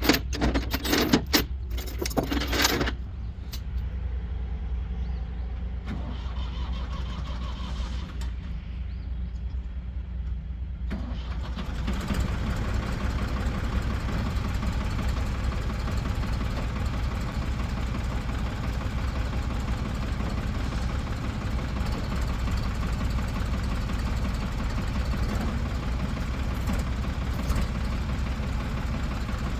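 Ford 4500 backhoe's diesel engine running steadily, with a few clanks in the first three seconds. About twelve seconds in, the engine gets louder and stays that way.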